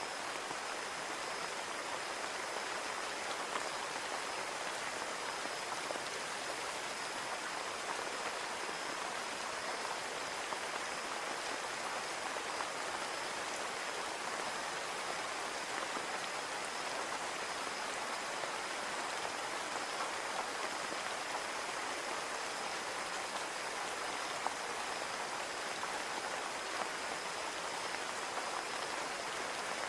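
Steady rain falling on a window: an even hiss with scattered small drop ticks, unchanging throughout.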